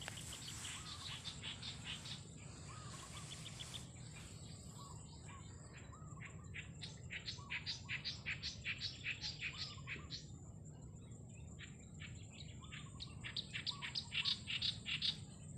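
Small birds chirping in quick runs of short, high notes, busiest in the middle and again near the end, over a steady high-pitched insect drone.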